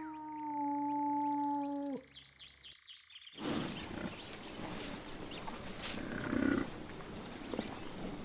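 A sequence of animal calls. First a long, slowly falling call lasting about two seconds, then a rapid run of high repeated chirps, then a noisier, rougher stretch of animal sound.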